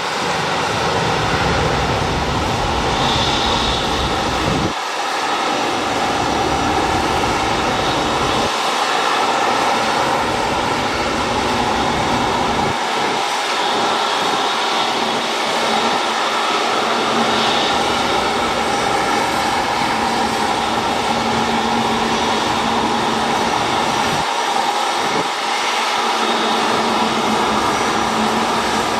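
Jet airliner engines running with a steady, loud rush and whine. A deep low rumble underneath drops out and returns abruptly several times.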